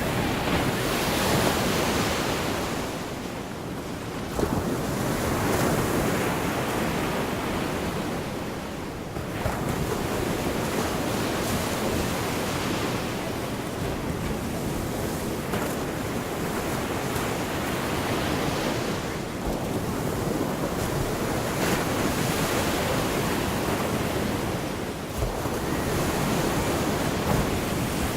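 Gulf of Mexico surf: waves breaking and washing ashore, a steady hiss that swells and eases every few seconds.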